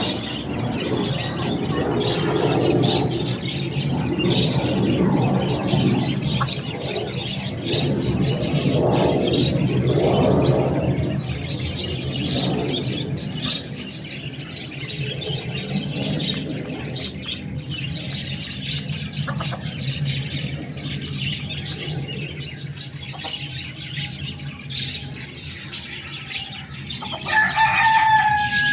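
Rooster and chickens calling over a steady noisy background, with a rooster call falling in pitch near the end.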